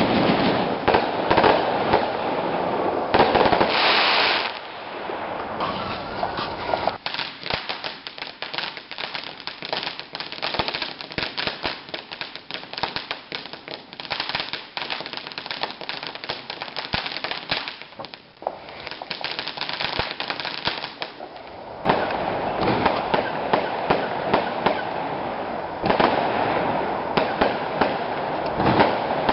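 Fireworks going off: a dense, rapid crackling of many small bangs, with louder, fuller spells of rushing crackle at the start and again from about three quarters of the way in.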